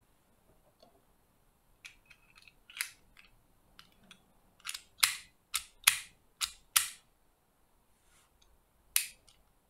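Miniature 1:2 scale Luger P08 toy pistol being worked by hand: a run of sharp metallic clicks and snaps. A quick cluster of loud snaps comes about five to seven seconds in, and one more near the end.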